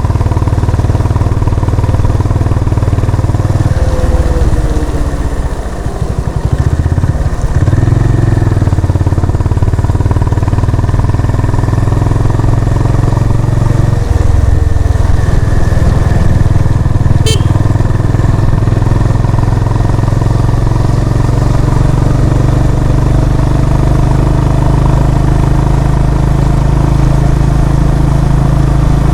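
Honda CB350 RS single-cylinder engine running on the move, with a steady low exhaust note. About four to seven seconds in the throttle eases off and the note dips and glides before picking back up. A single sharp click comes about seventeen seconds in.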